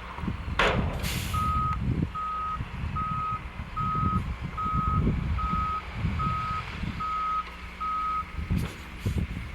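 A truck's backup alarm beeping nine times on one steady tone, a little under one beep a second, over a gusty low rumble. A short loud hiss comes about a second in.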